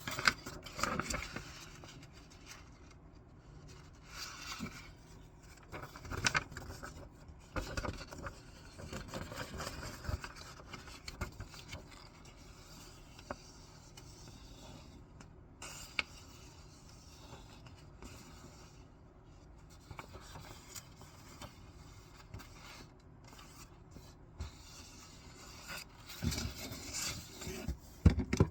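Sheets of paper being handled: bursts of rustling and scraping, slid and rubbed against each other, with a few sharp clicks.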